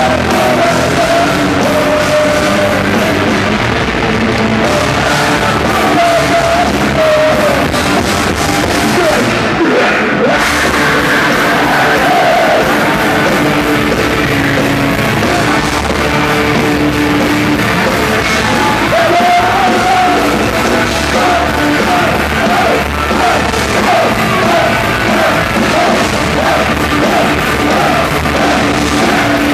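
A rock band playing loud and live, with sung and yelled vocals over the band.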